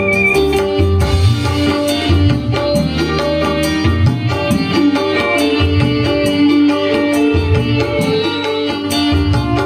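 Dangdut koplo band music: a fast kendang hand-drum rhythm under sustained melodic instruments.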